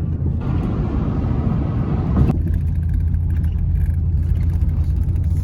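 Steady low rumble of a car driving, heard inside the vehicle: engine and road drone. It changes abruptly twice, about half a second in and a little past two seconds in.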